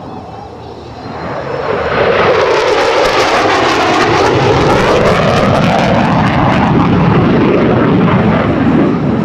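McDonnell Douglas F-15C Eagle's twin Pratt & Whitney F100-PW-220 turbofan jet engines roaring as the fighter makes a low pass. The sound builds in about a second in, stays loud, and eases off near the end, its tone sweeping as the jet goes by.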